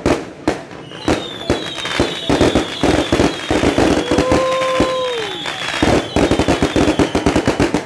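Fireworks and firecrackers going off in quick succession: a dense run of sharp bangs and crackling, with several high whistles slowly falling in pitch over it. About four seconds in a steady held tone sounds for over a second and drops away at its end.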